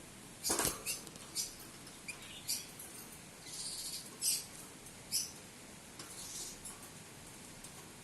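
A small bird chirping: short, high, squeaky calls at irregular intervals, with a louder burst about half a second in.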